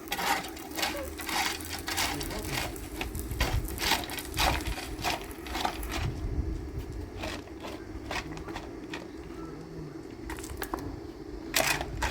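Metalwork on a welding job: irregular sharp crackles and knocks over a steady low hum, thick for the first half and then sparse, with one louder knock near the end.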